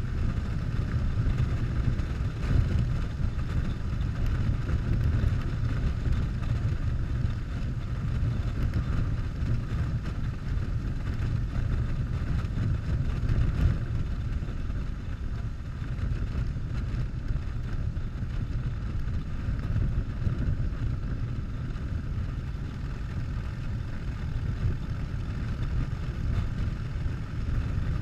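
Harley-Davidson Softail's V-twin engine running at a steady cruising speed, with wind rushing past the bike.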